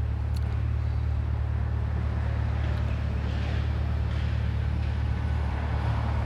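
Chevrolet C8 Corvette's 6.2-litre V8 idling steadily in drive, heard from inside the cabin as a constant low hum.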